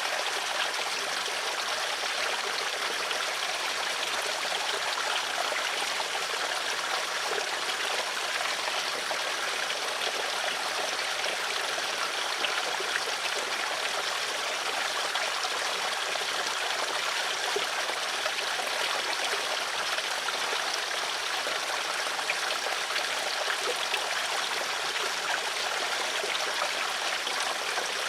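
Stream water flowing and trickling steadily, a constant splashing wash with small droplet sounds.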